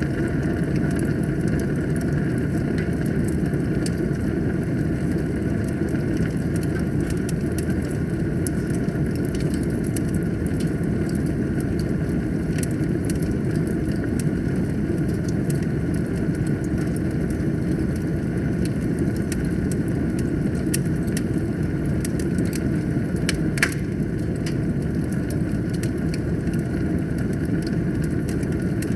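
Wood fire burning in a fireplace: a steady low rumble of flames with frequent small crackles, and one louder pop about two-thirds of the way through.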